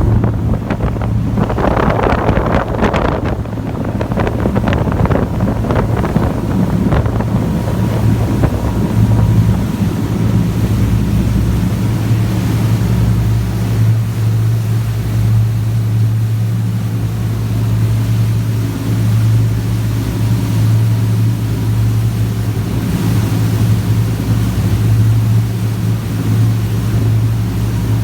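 Boat engine running as a steady low hum, with wind gusting on the microphone through roughly the first eight seconds.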